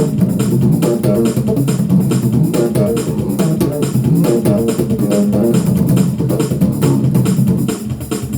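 Bass guitar playing a busy run of low notes over a steady beat.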